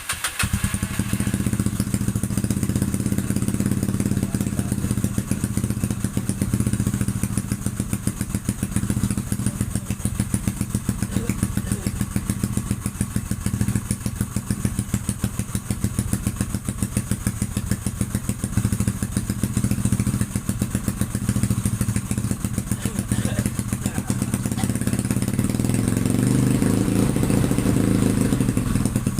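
Motorcycle engine idling steadily with an even, fast exhaust pulse, in a sound check of its exhaust note; the revs rise a little near the end.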